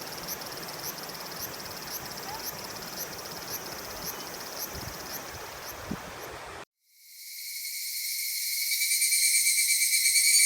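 Insects chirping outdoors in an even rhythm of about two chirps a second over a faint hiss. About two-thirds of the way through the sound cuts off suddenly and a tinkling, jingle-bell-like tune fades in and grows louder.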